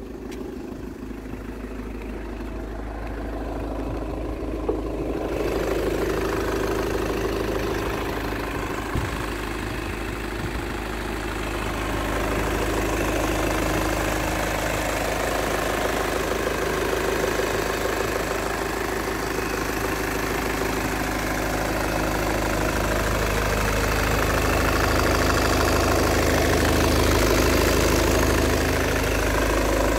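Volkswagen Sharan engine idling steadily under the open bonnet, heard close up. It grows louder over the first several seconds and then holds an even note.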